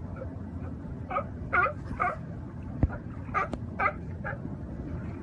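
A dog yipping and whimpering in short, high calls, about seven in all, with a sharp knock a little before the middle.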